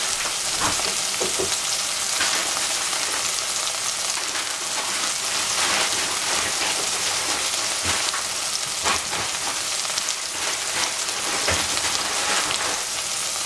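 Oyster mushrooms frying in hot cooking oil in a saucepan: a steady sizzling hiss with scattered small pops and crackles.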